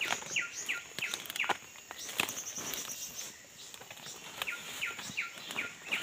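Bird calls: runs of short, sharply falling whistles, about three a second, twice, with a thin high twittering between them. Scattered sharp snaps and rustles of feet pushing through undergrowth.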